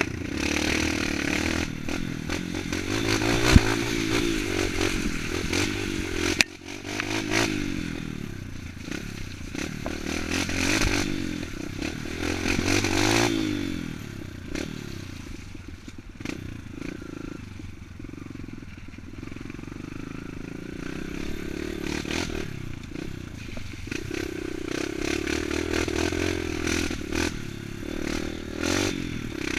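Dirt bike engine revving up and down again and again as it rides over rough off-road ground, with scattered knocks and clattering.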